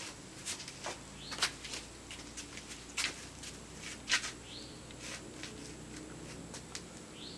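A quiet stretch with a few faint, short bird chirps and scattered small clicks.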